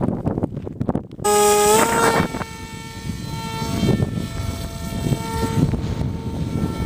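Wind buffeting the microphone, then about a second in the RC plane's small electric motor and 6x4 propeller throttle up abruptly into a high whine that rises in pitch and then holds, wavering slightly, over gusts of wind.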